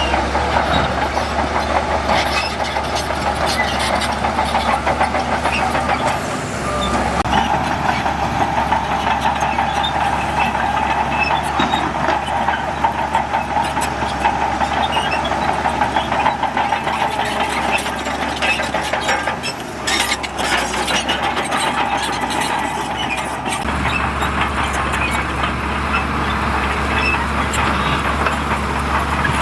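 Heavy earthmoving machinery working: a diesel engine runs steadily under load, with frequent metallic clanks and knocks over it. The sound dips briefly twice, about a fifth and two-thirds of the way through.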